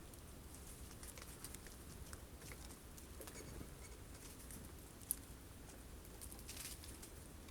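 Faint scattered taps and rustles of birds pecking and handling sunflower seeds at a wooden feeder, with one sharper click about five seconds in.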